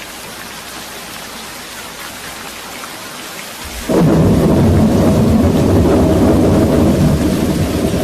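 Steady rain falling, then about four seconds in a loud, low thunder rumble sets in suddenly and goes on rumbling under the rain.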